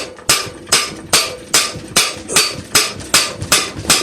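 Steady hammer blows on the steel end of a Kohler opposed-twin engine's crankshaft, about two and a half a second, each with a short metallic ring, driving the crank out of a tight-fitting timing gear that is coming off only very slowly.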